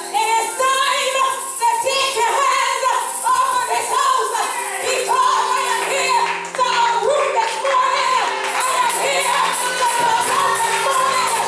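Gospel singing in a church, voices carrying a melody over sustained keyboard chords. A fast tambourine rhythm comes in near the end.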